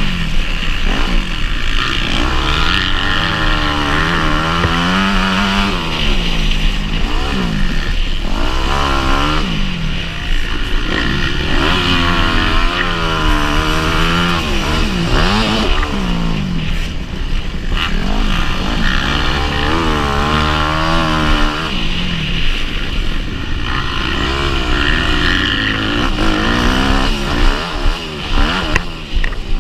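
Motocross bike engine ridden hard, revving up and dropping back again every few seconds as the rider accelerates, shifts and rolls off.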